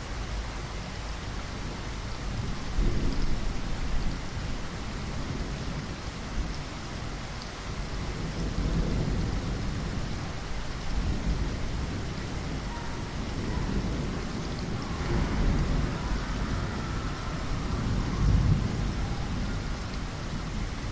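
Steady rain falling, with low thunder rumbling several times as it swells and fades.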